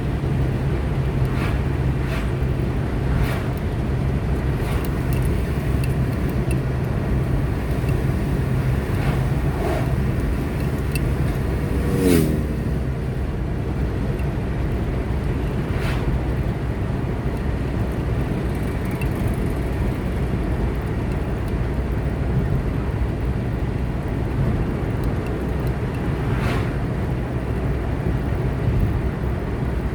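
A car driving on the road, with a steady low hum of engine and tyre noise. A brief louder whoosh with a falling pitch comes about twelve seconds in, and a few fainter swishes are scattered through.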